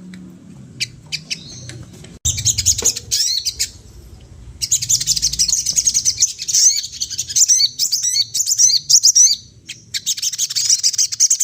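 Sogon songbird singing a fast, high twittering chatter of rapid chirps, in three long bursts with short pauses between.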